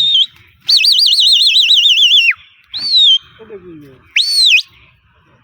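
Loud whistling: a warbling trill lasting about a second and a half, then a short falling whistle, and near the end a quick whistle that swoops up and back down.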